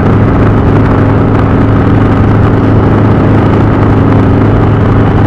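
Indian V-twin motorcycle engine running at a steady cruise, its pitch holding level throughout.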